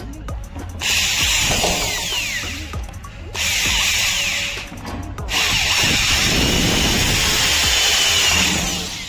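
A power tool running in three bursts, the last and longest ending about a second before the end, with music playing underneath.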